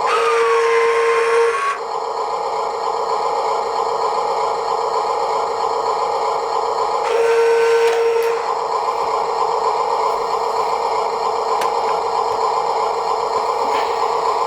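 Huina 1582 full-metal RC dump truck's electric motors and metal gears whining steadily, with two louder spells of about a second and a half each, one at the start and one about seven seconds in.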